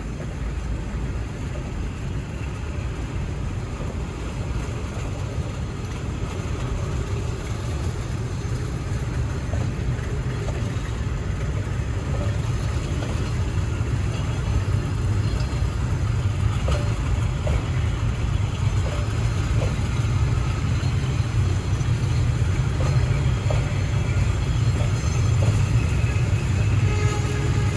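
Container train hauled by a diesel locomotive running on the track: a steady low rumble that grows gradually louder, with scattered brief clicks in the middle.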